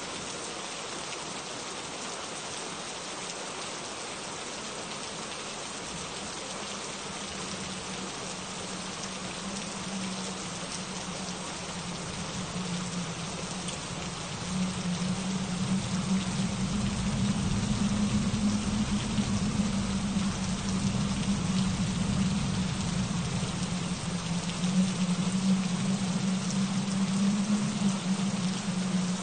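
Steady rain falling, an even hiss. From about halfway through, a low hum swells underneath and the whole grows louder.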